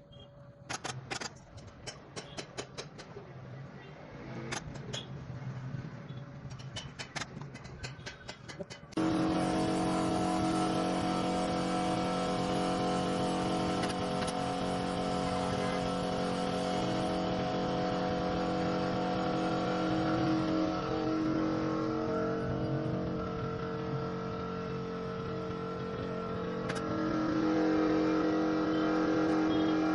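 A series of sharp clicks, then about nine seconds in a motor starts abruptly and runs steadily with a constant hum.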